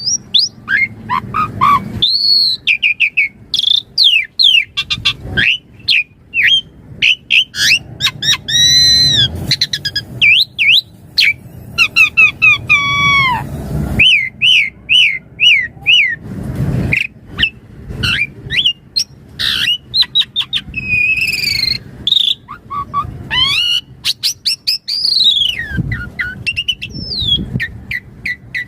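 Asian pied starling singing a fast, varied song of loud whistles, chirps and rising and falling glides. About halfway through it gives a run of repeated arched notes, about three a second.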